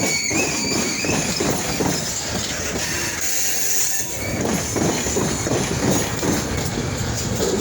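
Train rolling past slowly, its wheels rumbling and clattering on the track, with a high wheel squeal that fades out in the first half second.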